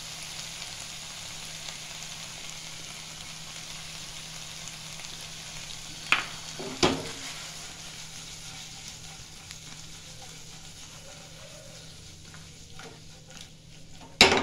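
Chilli gobi sizzling steadily in a non-stick pan as it is tossed, the sizzle slowly fading. A few sharp knocks cut through: two about six seconds in and a loud one near the end.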